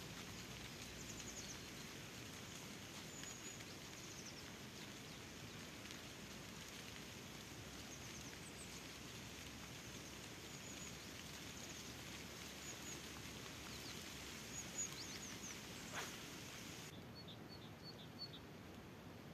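Steady outdoor hiss with small birds chirping high and thin, in short scattered runs, and one sharp click about 16 seconds in.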